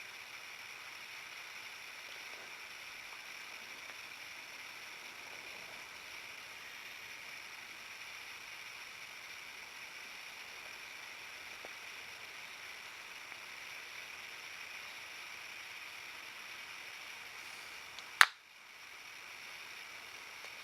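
Steady hiss of rain falling. About eighteen seconds in there is a single sharp, loud click.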